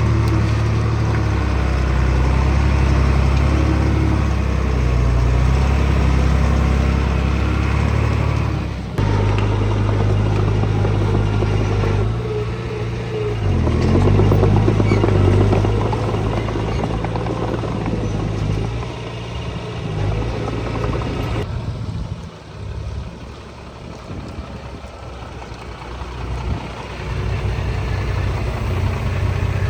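Diesel engine of heavy earthmoving machinery running under work, its pitch dipping and rising briefly. The sound changes abruptly twice, and it is quieter for a few seconds after the second change.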